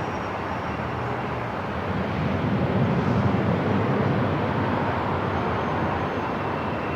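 Airport ambience: a steady low rumble with an even hiss over it, swelling slightly about two seconds in and settling again by about five seconds.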